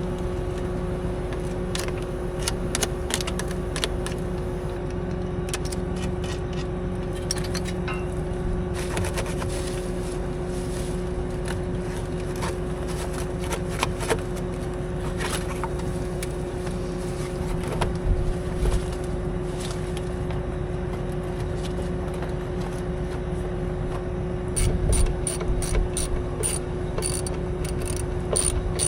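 A tractor engine idling steadily while hand tools scrape and click against a planter row unit that isn't dropping seed. Near the end comes a fast run of ratchet-wrench clicks.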